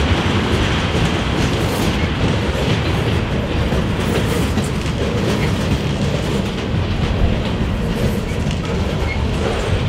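Freight train cars rolling past close by, steel wheels clicking over rail joints above a steady rumble.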